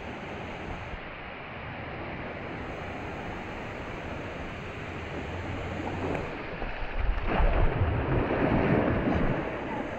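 Steady rush of water at a waterfall, growing louder and rougher about seven seconds in.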